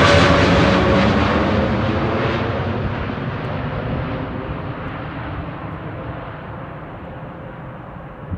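Jet airliner's engines fading away after it passes: a loud, broad rush that dies down steadily, with a falling whine that trails off early on.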